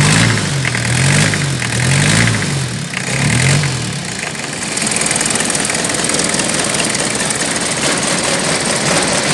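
Toyota 1C four-cylinder diesel engine running unevenly, its pitch rising and falling over and over for about four seconds, then settling into a steady, even noise. The engine is hard starting, noisy and shaking, which the owner puts down to heavy blow-by.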